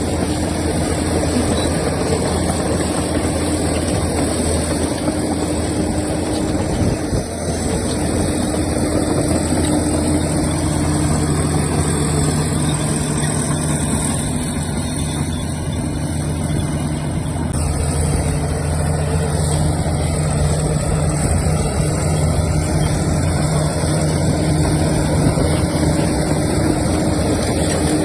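Diesel engines of a bulldozer and dump trucks running steadily. A second engine note joins about ten seconds in and fades out near the end.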